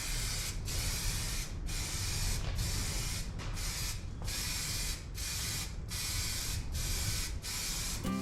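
Aerosol spray can of MTN Universal Primer spraying in short bursts, about ten in eight seconds, one quick pass after another.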